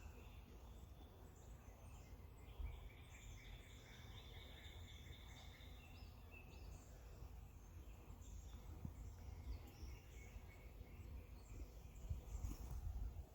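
Faint outdoor ambience: a steady low rumble with faint high chirping calls, mostly in the first half.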